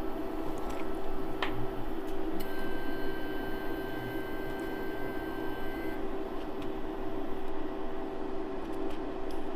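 Steady electrical appliance hum with a constant low tone, joined by a faint high-pitched whine from about two seconds in for a few seconds, and a few faint clicks.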